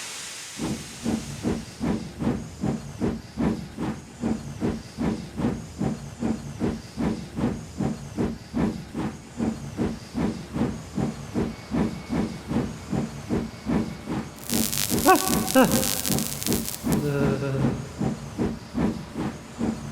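Steam locomotive puffing steadily at about two chuffs a second. About two-thirds of the way through, a loud burst of hissing steam lasts a couple of seconds, with a wavering whistle-like tone in it.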